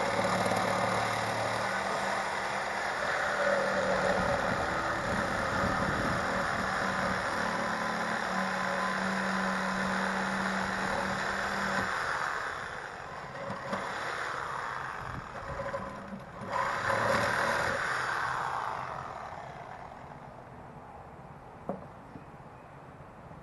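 A motor runs steadily, then falters and surges unevenly about twelve seconds in, and dies away at about nineteen seconds.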